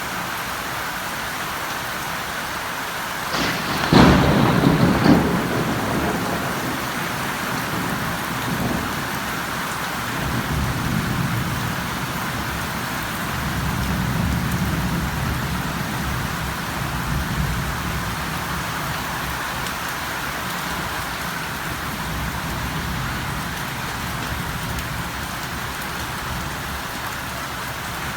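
Steady rain falling, with a sharp thunderclap about four seconds in that rolls off into a low rumble over the next few seconds; fainter rumbles follow later.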